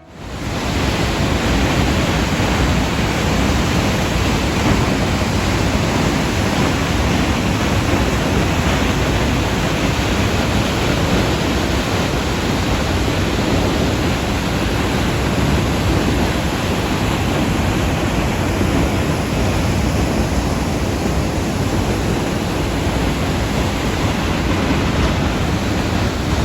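Elk Falls, a 25-metre waterfall, roaring steadily as its water plunges down the rock face: a constant, thunder-like rush with deep low rumble, unchanging throughout.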